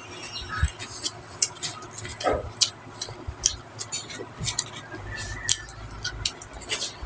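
Close-miked eating sounds: chewing and mouth smacks, an uneven string of short sharp clicks.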